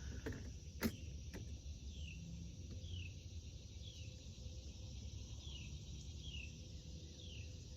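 Steady high-pitched drone of insects in a summer garden, with a short falling chirp repeated about once a second and a single click about a second in.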